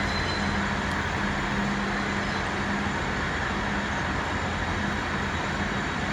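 Diesel train engines running with a steady low drone.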